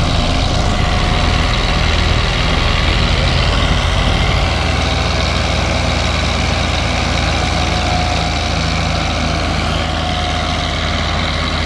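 Heavy tractor diesel engine running steadily, its low note shifting about halfway through, with a dense rumbling noise over it.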